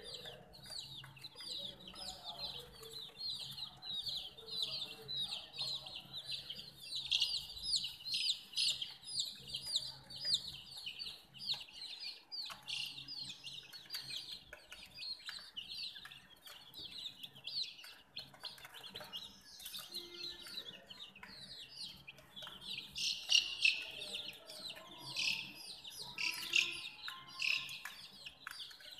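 Baby chicks peeping continuously, many high, short, downward-sliding peeps overlapping. The peeping thins out in the middle and grows busier again near the end.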